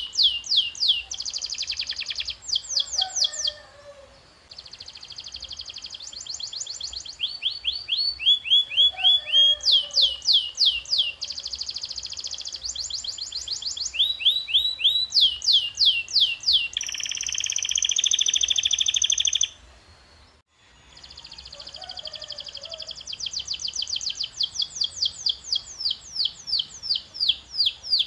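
Canary singing: quick runs of the same note repeated many times over, each run switching to a new note type every second or two, including fast buzzy trills and a high rapid trill a little past halfway, with a brief break just after that.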